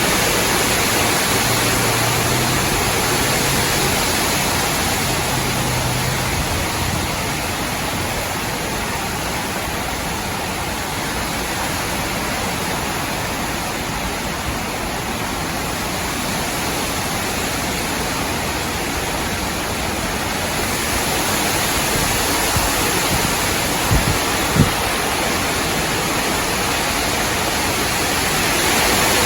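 Strong, gusty wind rushing through tree branches and leaves, easing off in the middle and building again toward the end. Two brief low thumps about half a second apart come near the end.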